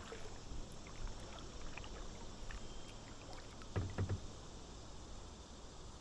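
Kayak paddle dipping and dripping on calm, slow river water, with a pair of louder thuds about four seconds in.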